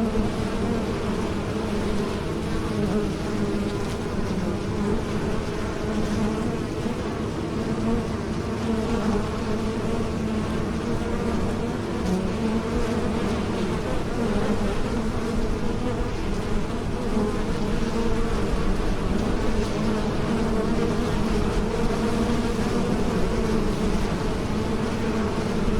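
Bees buzzing in flight: a steady, continuous drone that wavers slightly in pitch.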